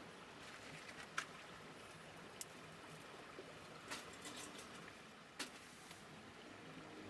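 A few faint, sharp clicks and taps, spaced a second or more apart, over a quiet background hiss.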